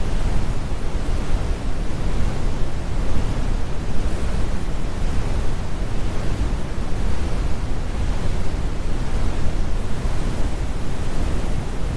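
Synthetic brown noise: a steady, deep rumbling hiss with most of its energy in the low end and the highs rolled off.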